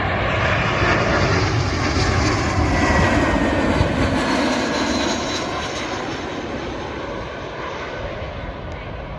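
British Airways Airbus A320 passing low on its approach to land, its jet engines a broad roar that peaks a few seconds in and then slowly fades. A faint whine drops slightly in pitch as it goes by.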